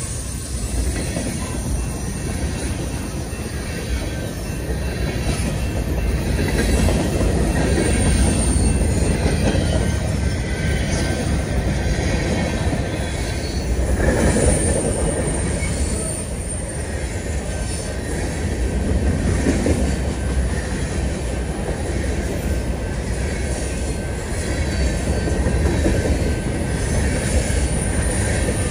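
Freight train of covered hopper cars rolling past close by: steel wheels running on the rails with a steady rumble and light clatter over the joints. A faint high squeal comes from the wheel flanges on the curve.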